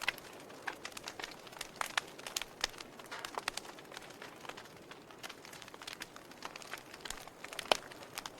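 Wood fire burning in a fireplace: irregular crackles and small pops over a soft steady hiss, with one sharper pop near the end.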